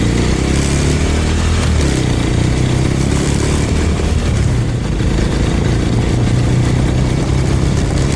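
Suzuki Thunder 250 motorcycle engine running under way; its note steps up about two seconds in, then holds steady.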